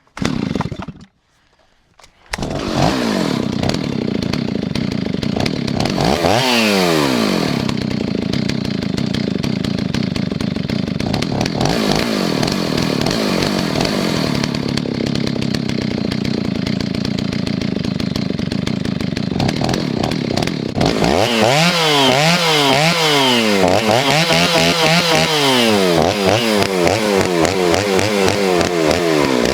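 Stihl 039 two-stroke chainsaw started just after its idle screw was turned in a hair. A short burst of engine right at the start, then it catches about two seconds in and idles, is revved up and back once about six seconds in, and from about twenty seconds on is revved up and down repeatedly, about once a second.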